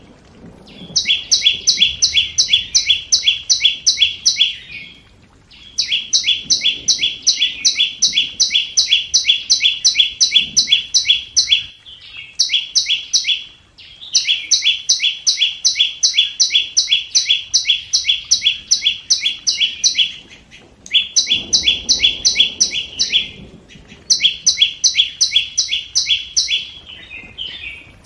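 A small songbird (the Vietnamese 'chim sâu') repeating a high, sharp note about three to four times a second in runs of several seconds with short pauses between: a lure call used to draw wild birds into a trap.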